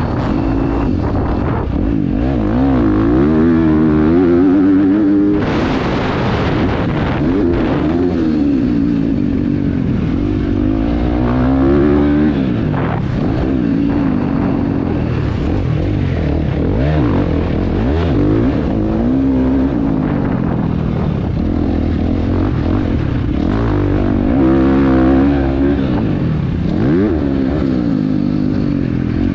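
KTM 350 XC-F single-cylinder four-stroke dirt bike engine, heard from a helmet camera while ridden on a motocross track, revving up and down over and over as the throttle is opened and closed and gears change. There is a brief rush of noise about five and a half seconds in.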